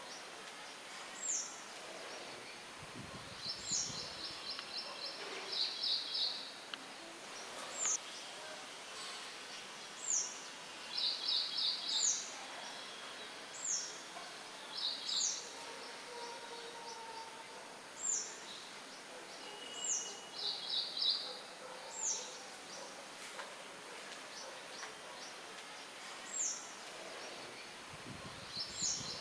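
Songbirds singing over a steady rush of wind through trees. One bird repeats a short, high, downslurred note every second or two, while another gives quick trills of rapid repeated notes a little lower.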